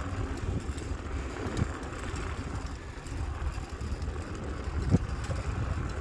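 Wind buffeting the microphone of a phone carried on a moving bicycle, a steady low rumble from the ride, with a knock about a second and a half in and a sharper, louder one near five seconds.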